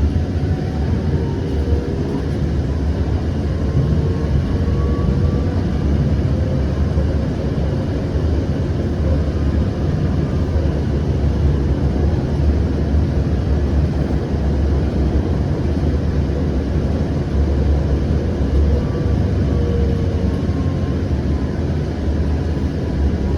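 Siemens S700 light rail vehicle running between stops: a steady low rumble and running noise, with a faint motor whine that rises in pitch over the first few seconds and falls again near the end.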